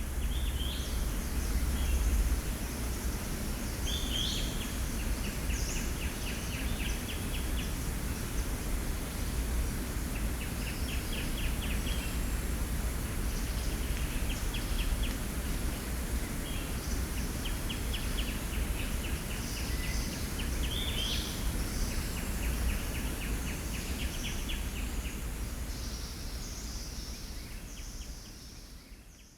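Jungle ambience: birds calling in repeated rapid rattling runs of notes, each a couple of seconds long, with short chirps between, over a steady high insect hiss and a low rumble. It fades out at the end.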